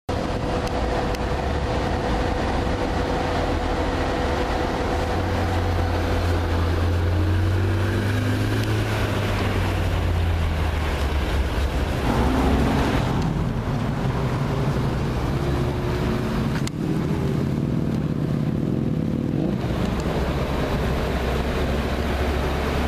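Porsche 918 Spyder's 4.6-litre V8 running at low revs as the car moves slowly, a deep steady rumble with small shifts in pitch.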